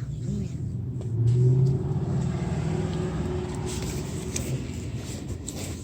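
Truck engine running and revving, rising and loudest about a second and a half in, then settling to a steady hum.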